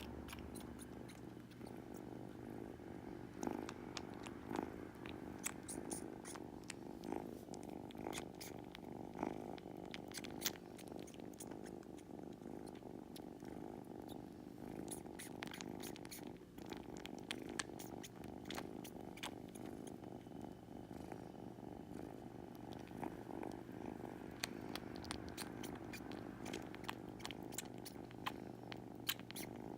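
Kitten purring steadily throughout, with scattered soft clicks over the purr.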